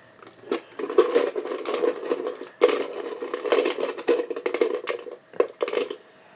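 Hand rummaging in a jar of folded paper topic slips and unfolding one: irregular rustling and crinkling with small clicks.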